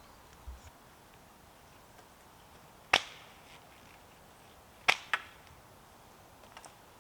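Two sharp knocks about two seconds apart, each dying away quickly, the second followed at once by a smaller one.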